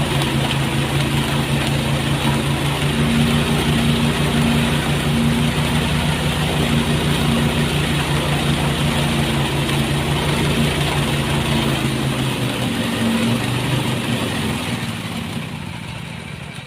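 Engine running steadily at a constant speed, then fading away over the last few seconds.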